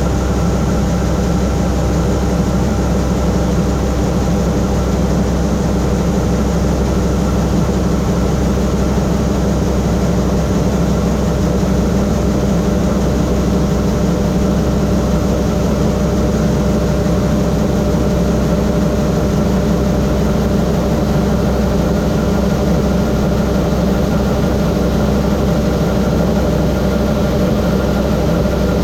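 Massey Ferguson 9690 combine harvester running steadily, a constant heavy engine and machinery hum with no change in pitch.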